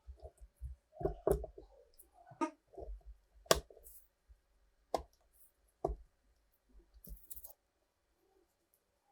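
Small metal parts and tools being handled on a workbench: a series of irregular sharp clicks and light knocks, the loudest about three and a half seconds in.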